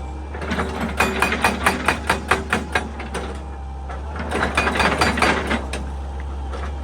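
Excavator at work: two spells of rapid knocking and crunching, about four knocks a second, over a steady low engine drone.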